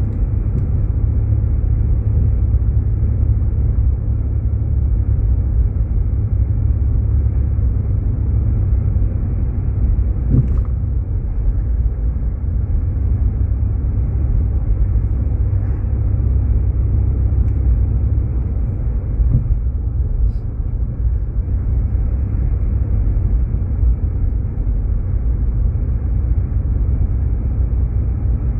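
Steady low rumble of road and engine noise inside the cabin of a Jeep Grand Cherokee driving on snow-covered roads, with a faint knock about ten seconds in.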